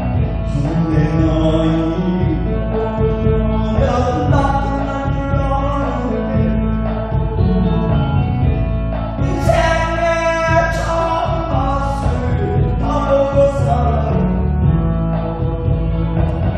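A song sung over an instrumental backing track with a steady bass line, sung along in a singing class.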